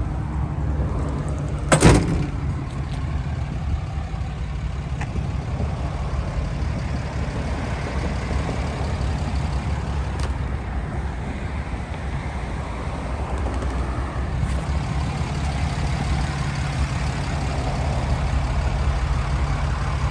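6.7-liter Cummins inline-six turbo diesel idling steadily, with a low hum. A single loud thump about two seconds in.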